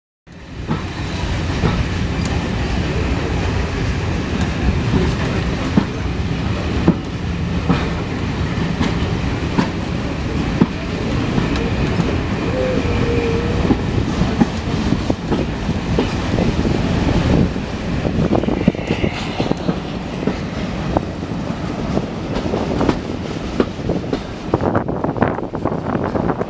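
Heritage railway passenger coach on the move, heard from an open window: steady rumble of the wheels on the track with frequent clicks over rail joints.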